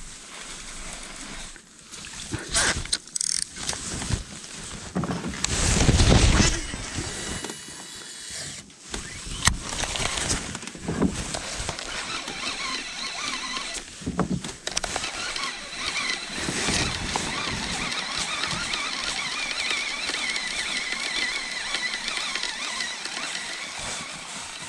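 Spinning reel being cranked to retrieve a diving lure, a steady whirr from about halfway through, with a loud whoosh of handling or wind on the microphone about six seconds in.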